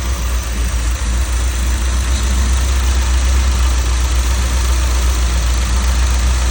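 1984 car's engine running steadily at a high idle on its first start in over a year, a steady low drone. It is running lean: the owner reads this from the exhaust glowing red.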